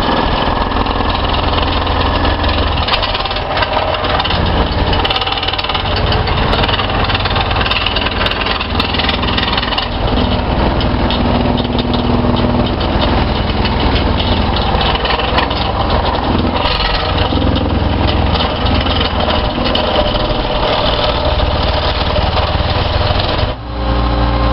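NPK C4A hydraulic plate compactor vibrating hard with a dense, steady rattle over the running engine of the machine that powers it. About a second before the end the compactor stops and only the engine is left, idling.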